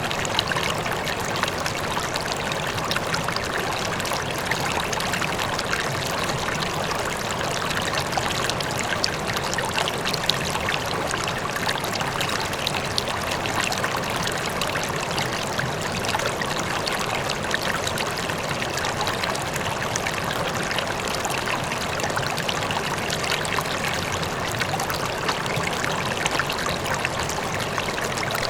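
River water flowing steadily over stones, a constant rushing and babbling with small splashes, and the faint rush of a distant waterfall beneath it.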